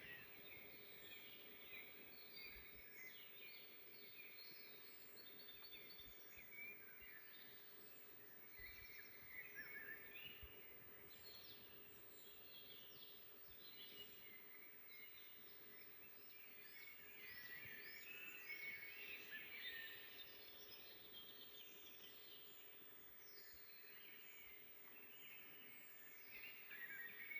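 Several songbirds singing together in a forest, a steady mix of quick chirps, trills and short down-sweeping notes from more than one bird, heard faintly.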